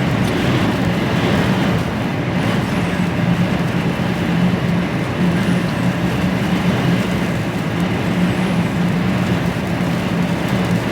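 HGV lorry heard from inside the cab while driving: a steady engine drone under even road noise.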